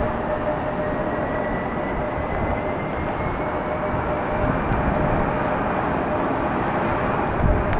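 Boeing 757-300 jet engines running, a steady hum under a whine that rises slowly in pitch, with wind buffeting the microphone.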